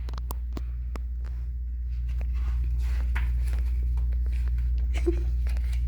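A steady low electrical hum, with faint rustling and scattered small clicks over it.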